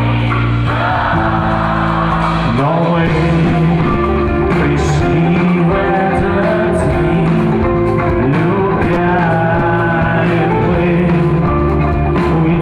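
Rock music with a male singer: a band playing at a steady loudness, with held and sliding vocal notes over sustained chords.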